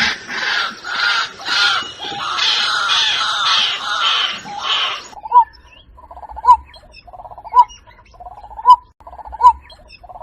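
Water-bird calls: first a dense, harsh chorus of many calls, then, after a cut about halfway, a single repeated call about once a second with quieter trilling between.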